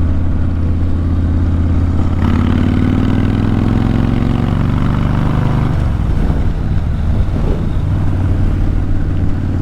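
Kawasaki VN 1600 Mean Streak's V-twin engine through Vance and Hines pipes, running under way. The engine note rises steadily as it accelerates from about two seconds in, drops back a little past halfway, then runs on steadily.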